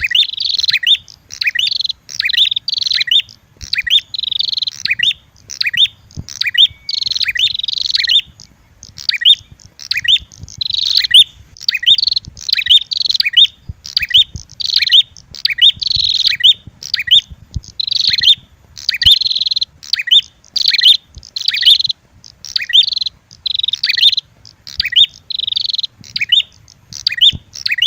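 Bird-lure track of prenjak calls: loud, rapidly repeated buzzy chirping phrases, roughly two a second, from the red-headed prenjak mixed with the agitated calls of a female prenjak fighting.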